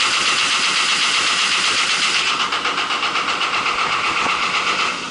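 Marley cooling tower fan running on its defective Geareducer gearbox, making an extremely loud, steady grinding rattle: the noise of the failing gearbox that has to be removed for repair.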